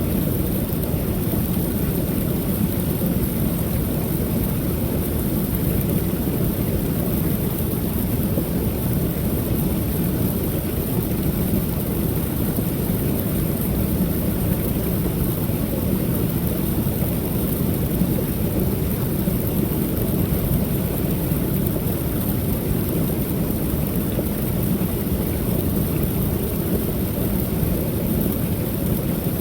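Creek waterfall pouring steadily, a continuous deep rushing rumble with a fainter steady hiss high above it.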